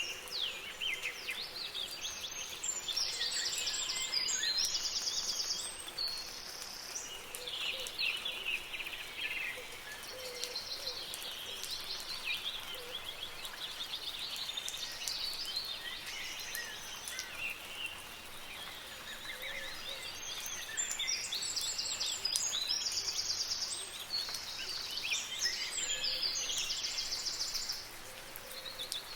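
Several songbirds singing and chirping, with a high, rapid trilling phrase that comes back several times, over a steady soft patter of rain.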